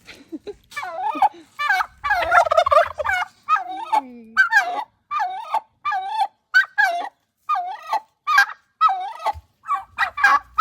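Farm poultry calling over and over in a quick series of short, wavering calls, about one or two a second.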